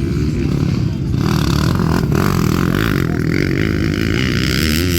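Motocross motorcycle engines running, their pitch rising and falling with the throttle. A broad hiss joins about a second in and carries on through the rest.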